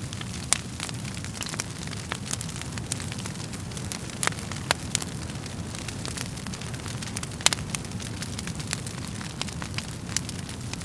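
Wood fire crackling in a fireplace: irregular sharp pops and snaps over a steady low rumble of flames. A few louder pops stand out, about half a second in, around four and a half seconds, and near seven and a half seconds.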